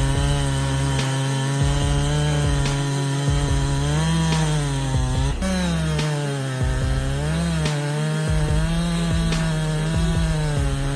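Two-stroke chainsaw running at high speed while cutting into wood, its engine note dipping and climbing back repeatedly as the chain loads and frees in the cut.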